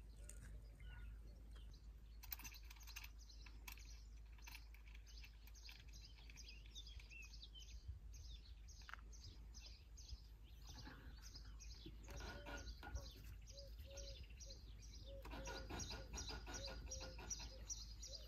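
Faint birds chirping in quick repeated high notes.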